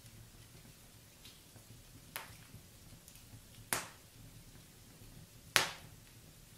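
Wood fire in a fireplace crackling, with three sharp pops from the burning logs, the last one loudest, over a faint low rumble of the flames.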